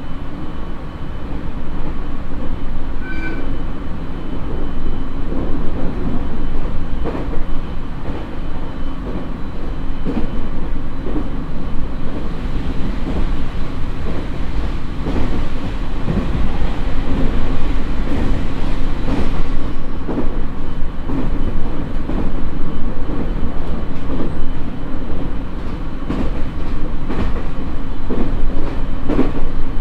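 Onboard running noise of a JR East 701 series electric train's motor car at about 90 km/h: a steady rumble of wheels on rail with occasional sharp clicks over rail joints.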